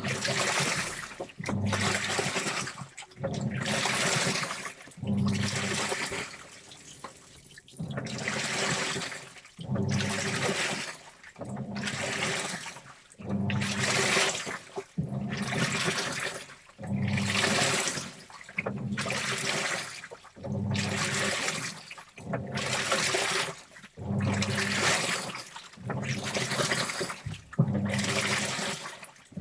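Washing machine in its wash cycle: water sloshing in regular strokes about once every second or so, each stroke with a low motor hum, and a short lull about six seconds in.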